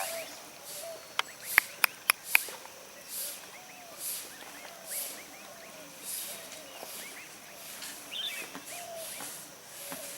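Swan cygnets peeping: scattered small high chirps, with a few sharp clicks in the first few seconds and soft rushing noises coming and going.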